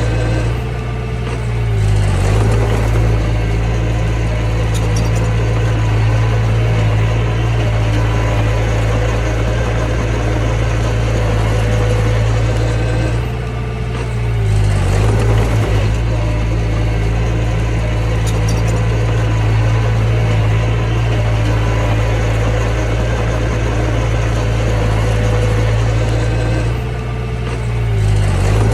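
Diesel engine of a mini bulldozer running steadily under work. Its note sags briefly and recovers three times, about every thirteen seconds.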